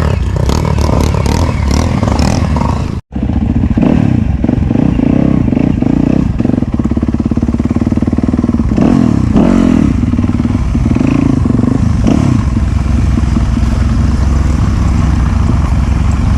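Off-road enduro motorcycle engine running, with clattering; the sound cuts out for an instant about three seconds in.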